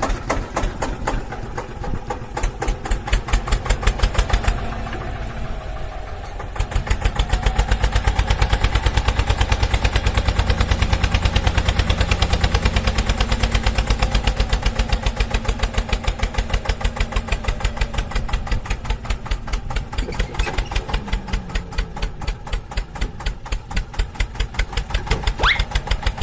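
Engine sound chugging in a fast, even rhythm over a steady low hum, getting louder a few seconds in, with a couple of short rising glides near the end.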